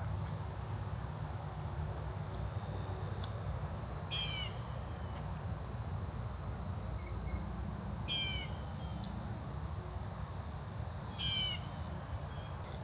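A bird calling three times, about four seconds apart, each call a short burst of quick notes, over a steady high drone of insects and a low rumble of wind on the microphone.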